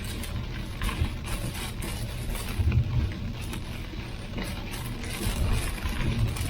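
Vehicle driving: a steady low road and engine rumble with irregular light clicks and rattles over it.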